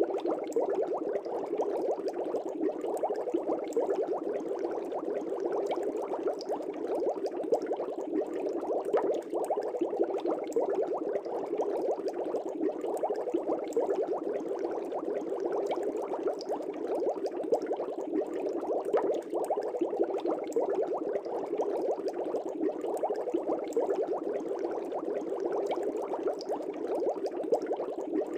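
Air bubbles rising and popping in an aquarium, a steady dense bubbling and gurgling without a break.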